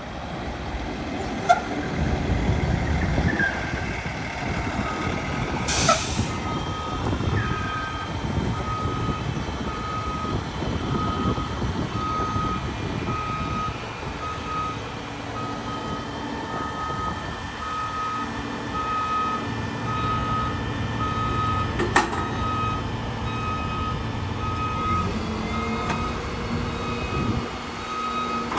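2025 Hino grapple truck's diesel engine running, with a short hiss of released air about six seconds in, then its backup alarm beeping in a steady string of evenly spaced beeps. A sharp click is heard near the end.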